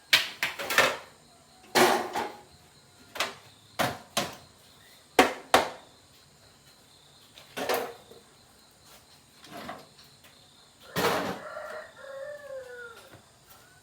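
Hammer blows striking at irregular intervals, often in quick pairs, with a longer, heavier strike about eleven seconds in. A rooster crows in the background near the end.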